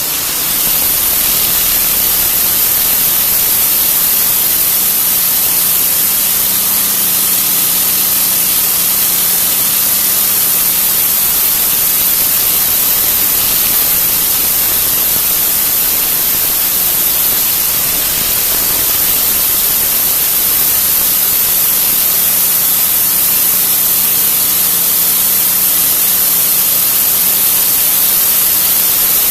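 Pressure washer spray blasting concrete: a loud, steady hiss, with the low steady hum of the washer's motor underneath.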